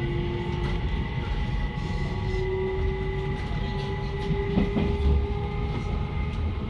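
Electric commuter train running on the Tokaido Line, heard from the front of the train: a steady low rumble with several thin steady tones over it and occasional clicks of the wheels over the rails.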